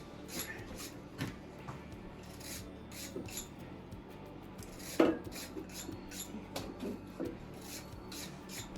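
Light metal clinks, taps and scraping of engine parts and tools being handled during an LS engine rebuild, with one sharper knock about five seconds in.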